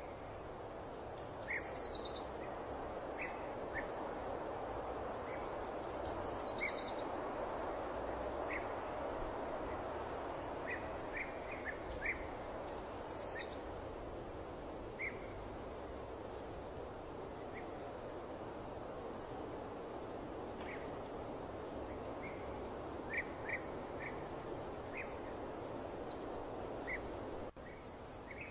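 Small birds chirping and calling over a steady rushing background noise, with quick, high, falling calls near the start and again about six and thirteen seconds in. The background noise drops abruptly about a second before the end.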